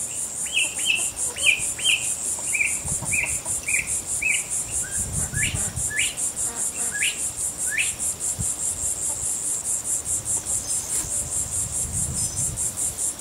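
An insect, which the listener takes for a cricket or grasshopper, chirps steadily in a fast, even, high-pitched pulse of about five beats a second. For the first half, a bird adds a run of short chirps followed by a few rising notes.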